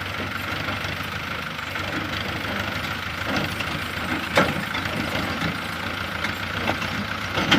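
Tractor engine running steadily at idle, with one sharp clank a little past halfway.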